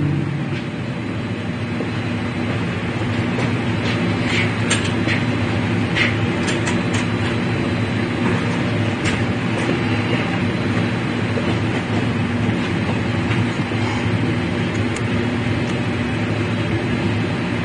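A steady low mechanical hum, with a few light clicks between about four and nine seconds in.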